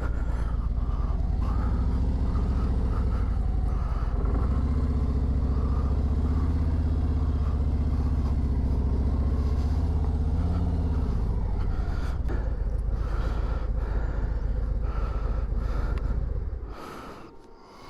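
Harley-Davidson Ultra Limited Low's V-twin engine running steadily as the bike creeps along at low speed. It eases off about eleven seconds in and stops near the end.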